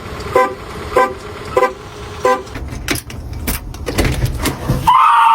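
A series of short, evenly spaced horn-like toots, about one every 0.6 seconds, followed by a low rumble with several sharp clicks.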